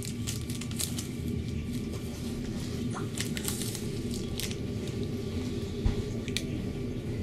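Ride noise inside a Koleje Mazowieckie passenger train under way: a steady low rumble of the running train, with frequent short clicks and crackles and one sharp thump about six seconds in.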